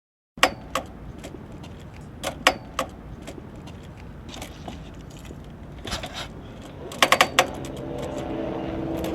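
Scattered sharp metallic clicks and clinks, with a quick run of four about seven seconds in, over a low background rumble; a denser, steadily rising sound builds near the end.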